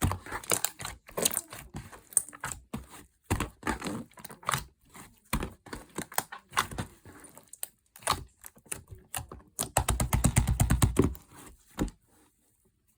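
Slime being squished and pressed by hand, making irregular sticky clicks and crackles, with a fast run of pops near the end before it stops.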